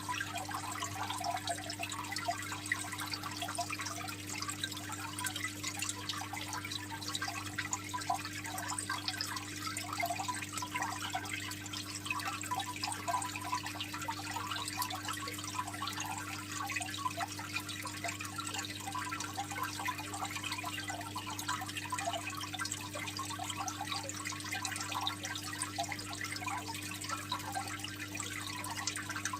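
Aquarium water trickling and splashing continuously, the steady babble of a filter outflow, with a steady low hum underneath.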